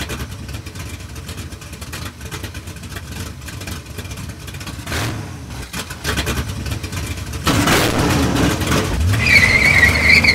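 A car engine running and building up, with a low rising revving note near the end. It is joined by a loud, wavering high-pitched squeal for about a second before it stops.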